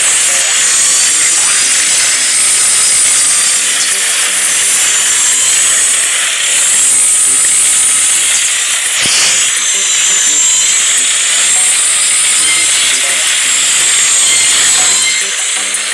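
Loud, steady high-pitched hiss whose highest band slowly wavers up and down, with one sharp click about nine seconds in.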